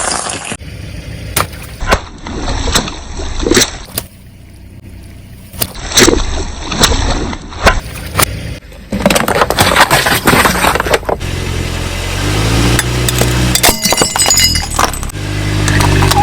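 Things cracking and crunching under a car's tyres as they are crushed, with sharp cracks and snaps every second or so. About two-thirds of the way in, the car's engine takes over, running with a low hum whose pitch steps up and down.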